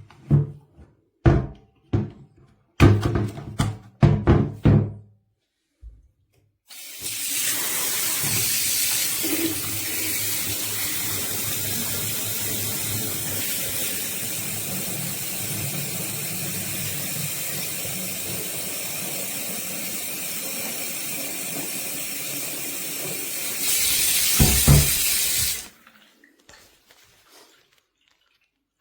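BISSELL Revolution HydroSteam upholstery wet vac running: a steady, hissing rush of suction and water for about twenty seconds that gets louder near the end and then cuts off suddenly. Before it starts there are several short thumps.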